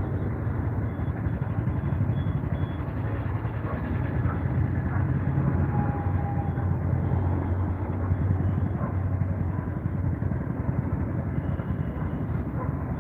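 A vehicle's engine running steadily, a low hum under constant road and traffic noise.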